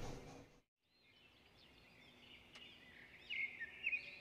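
Birds chirping in the background: faint, quick, repeated chirps and short gliding calls that grow a little louder near the end. There is a brief cut to silence about half a second in.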